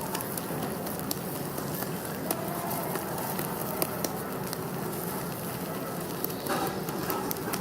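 Food stir-frying in a wok over a gas flame: a steady hiss with scattered crackles and clicks throughout.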